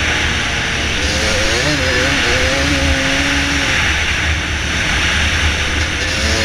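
Dirt bike engine running while riding, its pitch wavering up and down between about one and four seconds in, over a steady loud hiss.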